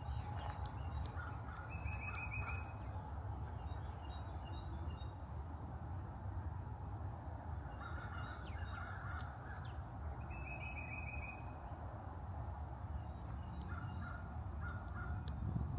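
Birds calling: groups of short, honking calls come several times, and a quick run of high, evenly spaced notes sounds about two seconds in and again about ten seconds in. A steady low rumble runs underneath.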